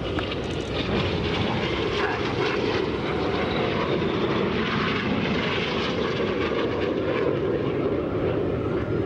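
Jet noise from the Red Arrows' BAE Hawk T1 trainers, their Adour turbofan engines heard as a steady, continuous rush as several aircraft fly the Vertical Break manoeuvre.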